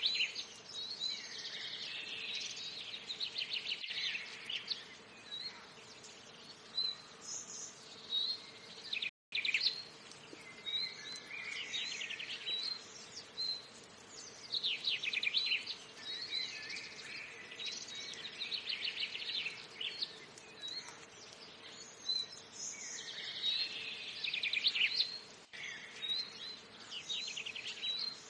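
Forest birdsong: several birds giving repeated short chirps and bursts of rapid trills, over a faint steady hum, with the sound cutting out briefly about nine seconds in.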